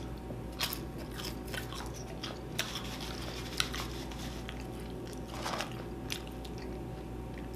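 A person chewing food close to the microphone, with scattered short wet mouth clicks and smacks.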